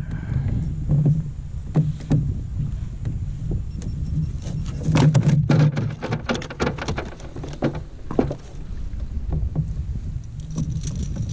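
Knocks and clatter of gear being handled aboard a plastic fishing kayak, thickest in the middle, over a steady low rumble of wind and water.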